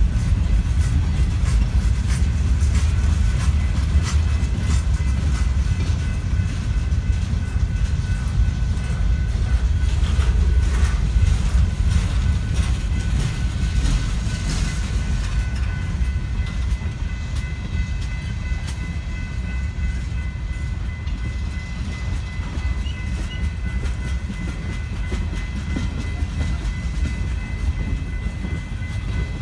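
Freight train cars rolling past close by, a string of tank cars rumbling low with wheels clicking over the rail joints. A thin steady high whine rides above the rumble, clearer in the second half, while the rumble eases slightly.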